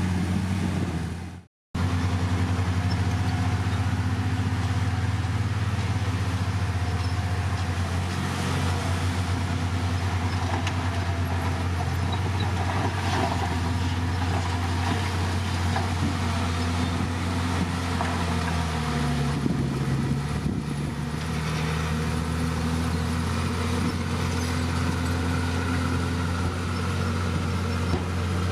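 Heavy diesel engine of earthmoving equipment running steadily. Its pitch dips for a moment about two-thirds of the way through, as it comes under load, then recovers. The sound cuts out briefly about a second and a half in.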